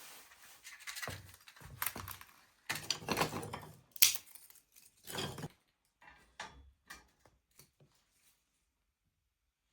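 Irregular clattering and scraping of small hard objects being handled, thinning out into a few light clicks about six seconds in, then stopping.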